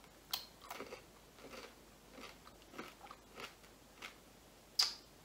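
Close-up chewing of a Cadbury Mini Egg, its hard sugar shell crunching in the mouth in a string of short crunches about every half second, the loudest near the end.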